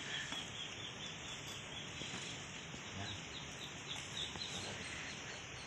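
Steady hiss of light rain falling, a drizzle. Partway through, a bird gives a quick run of faint, high chirps.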